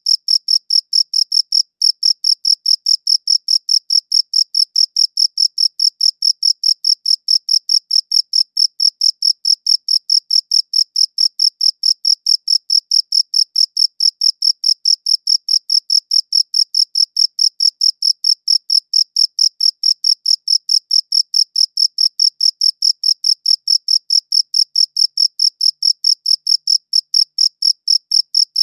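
A cricket chirping in a steady, even rhythm, several high-pitched chirps a second at one unchanging pitch.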